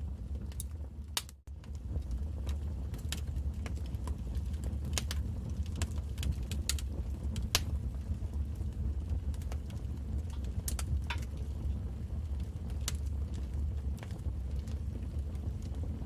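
Wood fire crackling: irregular sharp pops and snaps over a steady low rumble of flame. The sound briefly drops out about a second and a half in.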